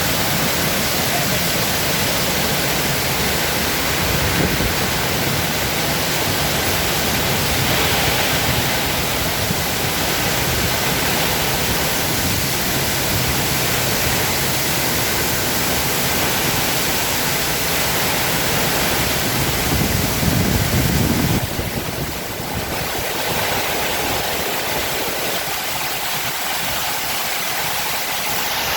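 Torrential rain with strong wind: a steady, dense hiss of rain pouring down, with a brief louder low surge about two-thirds of the way through.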